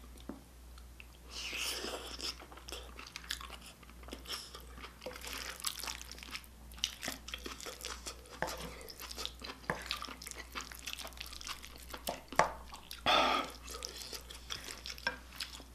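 Chewing and wet mouth sounds of eating spicy stir-fried octopus, with many small clicks throughout and two louder noisy swells, one about a second and a half in and one near the end.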